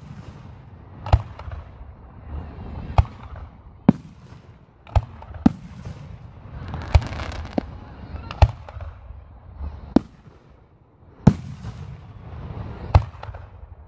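Aerial fireworks shells bursting overhead: about eleven sharp bangs at uneven intervals, one to two seconds apart, some followed by a brief rumbling echo.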